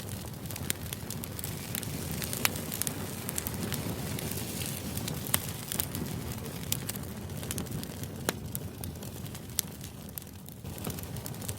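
Steady crackling noise with scattered sharp pops, about one every second or so.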